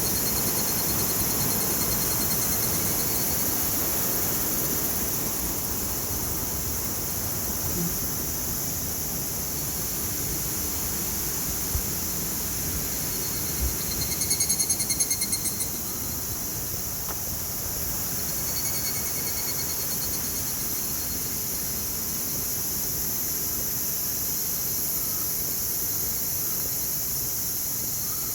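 Steady rushing of a mountain stream in a gorge. A high, pulsed trilling call sounds over it three times: at the start, around the middle, and about two-thirds of the way in.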